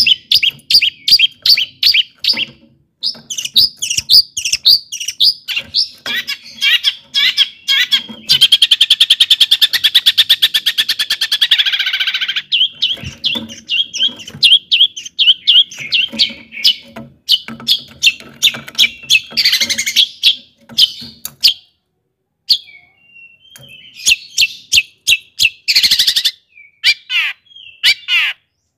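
Long-tailed shrike (cendet) singing a loud, varied song of rapid sharp chattering notes, with a fast buzzing rattle lasting a few seconds about a third of the way in and a brief pause about two-thirds through. The song is the mimicking 'isian' kind, working in other birds' phrases.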